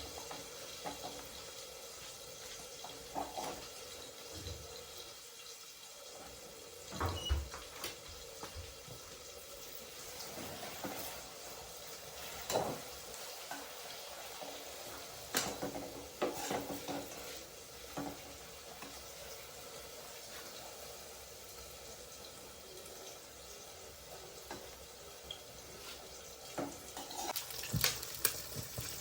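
Kitchen work: scattered clinks and knocks of utensils and dishes over a low steady hiss.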